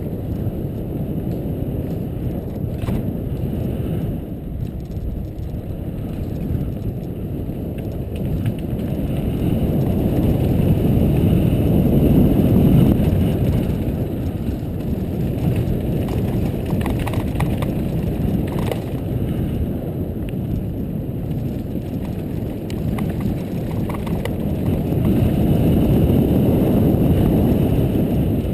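Mountain bike riding on a dirt trail: wind rumbling on the microphone along with tyre and trail noise, with faint rattles. It swells louder twice, about a third of the way in and near the end.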